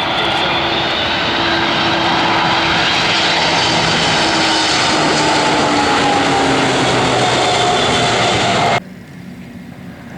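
Cargo airplane passing close by: loud engine noise with tones that slowly fall in pitch as it goes past. The sound cuts off abruptly near the end.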